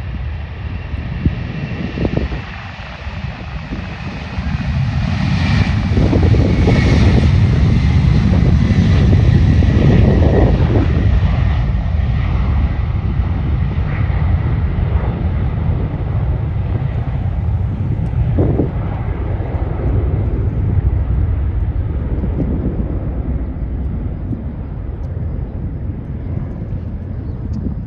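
Boeing 747-400's four jet engines at takeoff power: a loud rumble that builds to a peak and then slowly fades as the jet passes and climbs away. A faint high whine falls in pitch in the first few seconds.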